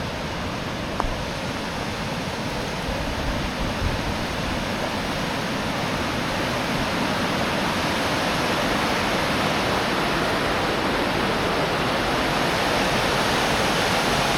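Steady rushing of the Isar river's flowing water, growing gradually louder and then cutting off abruptly right at the end.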